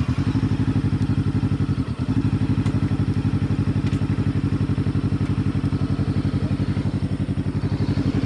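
Motorcycle engine running close to the microphone at a steady low speed, with an even, rapid pulsing beat that barely changes, and a brief dip about two seconds in.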